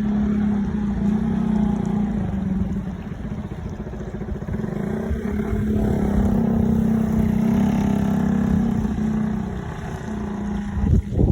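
Street traffic: a motor vehicle's engine running with a steady hum that eases off for a couple of seconds and comes back, over wind buffeting the microphone. A loud bump near the end.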